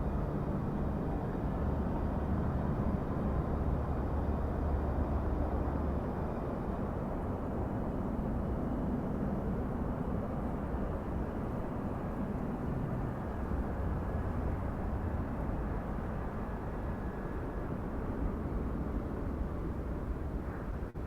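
Steady low rumble of a Boeing 767-300ER's engines and airframe during landing, easing slightly over the second half.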